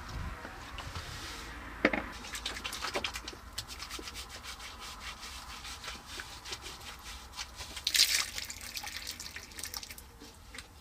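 Scraping and rubbing with many quick clicks and knocks, loudest about two seconds in and again around eight seconds in.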